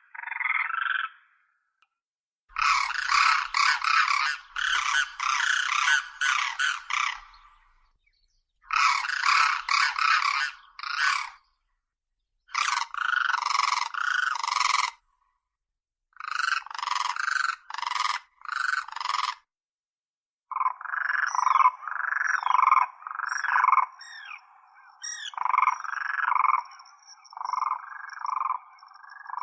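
Common cranes calling: loud, rolling trumpeting calls given in runs of several seconds with short silent breaks between the runs. Near the end the calls come as a steady series of separate notes.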